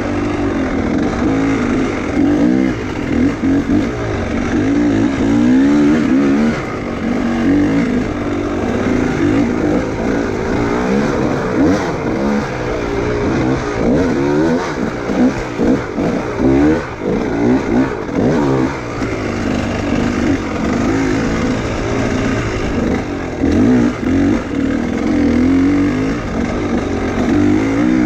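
Enduro motorcycle engine revving up and down over and over as the throttle is worked on and off, with short dips in level.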